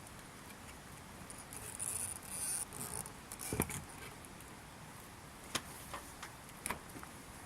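Wood campfire burning with a soft hiss and a few sharp crackling pops.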